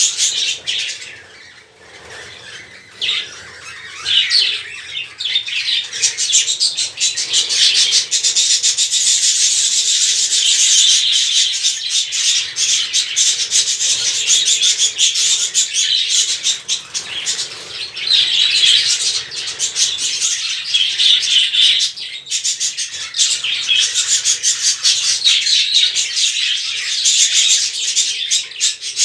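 A colony of budgerigars chattering and chirping all together in a dense, continuous scratchy twitter. It is thinner for the first few seconds, then builds to a steady loud chorus.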